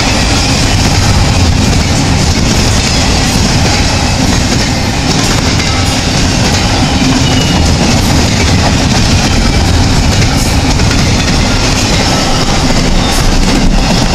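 Intermodal freight train's cars rolling past close by: a loud, steady rumble of steel wheels on the rails, with a faint clickety-clack.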